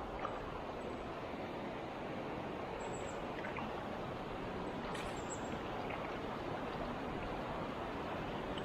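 Steady rushing of a flowing stream or river, a constant even wash of water noise.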